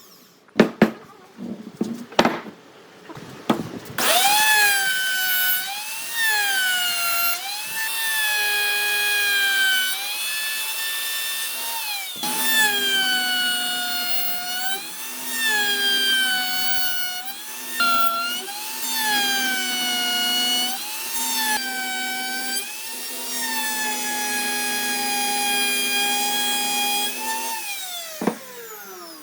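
A high-speed power tool working wood: a few knocks, then its motor whines steadily, the pitch dipping and recovering every second or two as it bogs under load against the wood, before it is switched off and spins down near the end.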